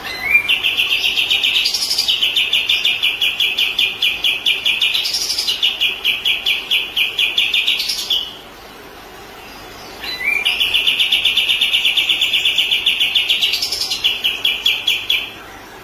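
Kapas tembak bird singing two long, fast trills, each broken by short rising notes, with a pause of about two seconds between them.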